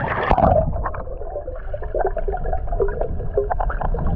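Muffled underwater gurgling and bubble pops heard through a submerged microphone, starting with a splash as it goes under about half a second in.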